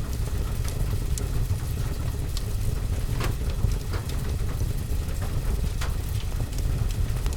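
Wood fire in a fireplace crackling, with scattered sharp pops, over a steady deep rumble and the even patter of rain.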